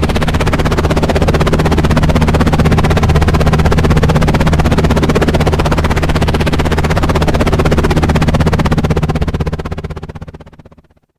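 Helicopter rotor chop and turbine running steadily as rapid, even pulses over a low hum, fading out to silence near the end.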